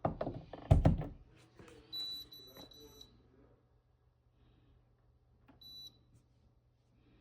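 Dehumidifier control panel beeping as it is powered on: a beep of about a second starting about 2 s in and a short beep near 5.5 s, after a few knocks of handling in the first second, over a faint steady low hum.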